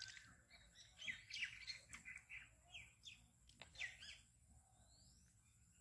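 Small birds chirping: a quick run of short, high calls through the first four seconds, then a single rising whistle.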